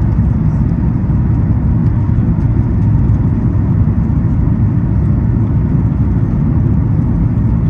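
Steady low rumble of airflow and engines inside the cabin of a Boeing 737 MAX 8 airliner on final approach.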